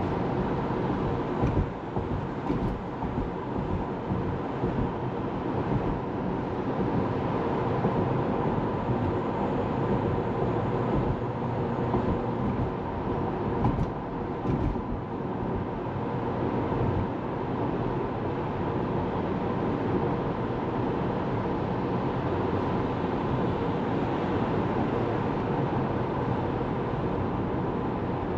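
Steady road noise from a moving Tesla Model 3: the hum of tyres on the road, with no engine sound because the car is electric.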